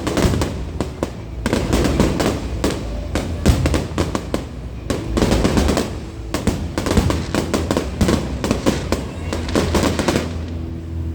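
Fireworks display: a dense run of bangs and crackling over a low rumble, with music playing underneath that becomes clearer near the end.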